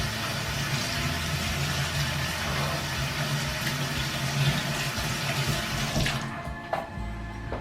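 Kitchen tap running into the sink as hands are washed, a steady rush of water that is shut off about six seconds in.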